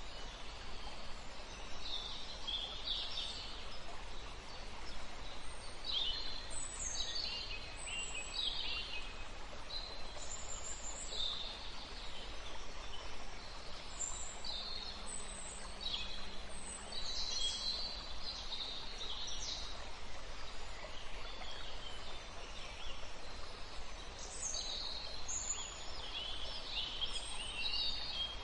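Songbirds chirping and trilling in short, repeated phrases over a steady background hiss.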